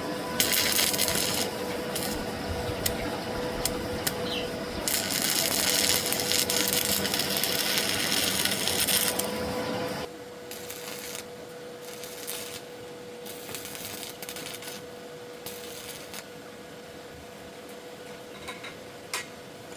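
Metalworking noise: about ten seconds of loud, dense rasping and crackling over a steady hum, then it stops and only scattered clicks and light taps remain over the fainter hum.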